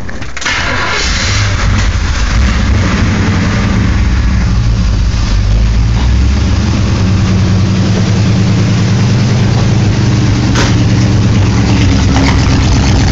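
1969 Chevrolet C10 pickup's engine catching about half a second in and then running steadily. It is on stale old gas with a carburetor due for a rebuild.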